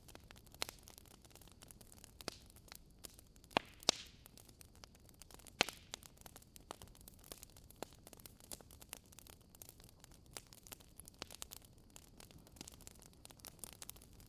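Wood fire crackling in a fireplace: a steady scatter of small pops and snaps over a faint hiss, with a few louder snaps in the first half.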